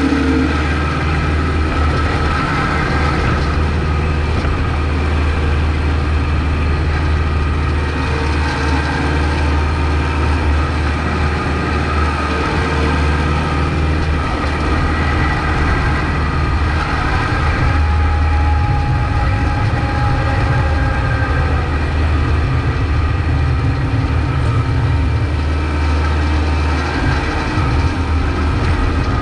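Kubota MX5200 tractor's diesel engine running steadily while plowing snow, a constant low hum with a few steady higher tones above it.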